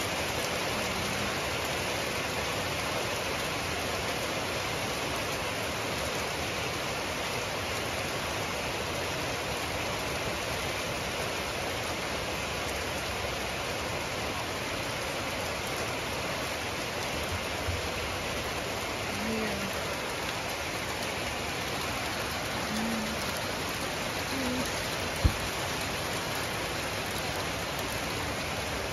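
Heavy rain pouring down steadily, a dense even hiss of rain on the ground, trees and vehicles. One sharp click comes about 25 seconds in.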